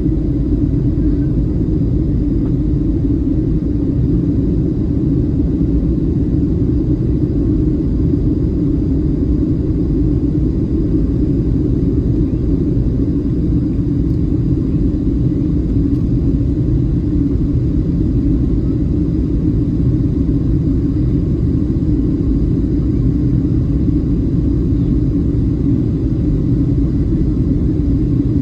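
Steady, even rumble of a Boeing 737-700 in flight, heard from inside the passenger cabin: its CFM56-7B engines and the airflow over the fuselage.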